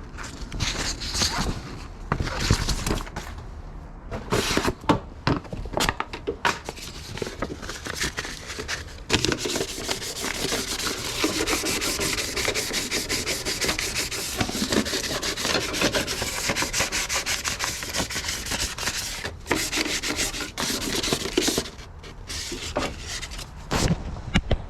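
1000-grit sandpaper rubbed by hand over the sheet-metal of a car's engine bay. Short, scattered strokes at first, then about twelve seconds of continuous back-and-forth sanding, breaking into short strokes again near the end.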